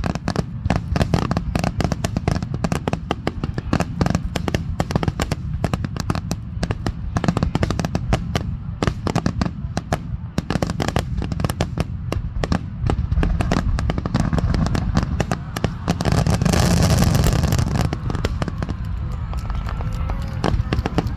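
Fireworks finale barrage: aerial shells bursting in rapid, overlapping bangs, several a second. A denser, louder stretch of crackling comes about three quarters of the way through.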